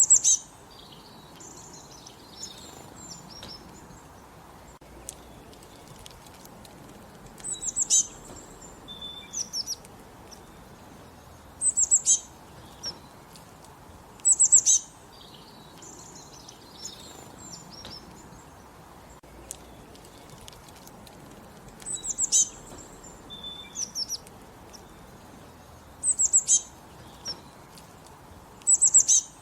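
Songbirds singing: one bird repeats a short, high, loud phrase every few seconds, with a longer pause around the middle, while fainter chirps of other birds carry on in between.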